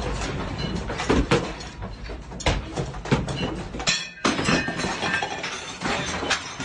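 Objects clattering and breaking, with glass clinking among them: a rapid, irregular run of sharp knocks and clinks over a noisy background.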